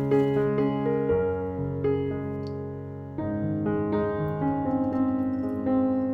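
Background piano music, a slow melody of held notes and chords, which dips briefly about three seconds in before a new phrase begins.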